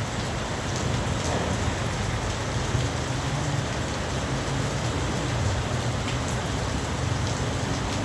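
Heavy rain falling steadily on surfaces, with a few sharper drips and a low steady hum underneath.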